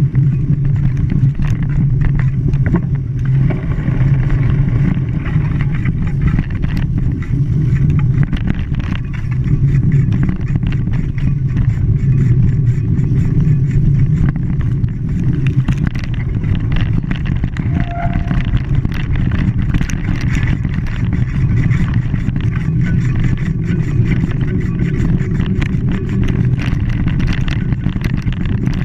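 An engine running steadily, a constant low drone with some noise over it.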